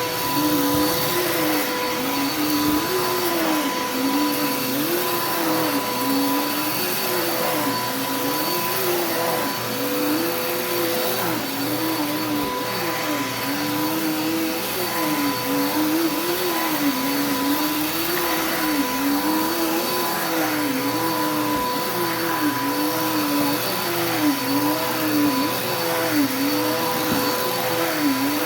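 Vacuum cleaner running steadily while being pushed over carpet, a constant motor whine with a lower hum that rises and falls in pitch about once a second.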